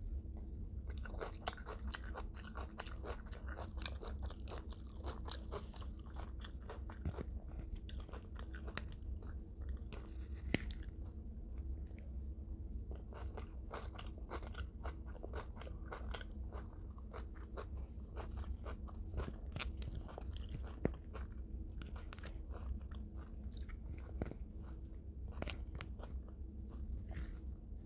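Close-up chewing and crunching of extra-crispy fried chicken: many small irregular crunches and crackles, with a steady low hum underneath.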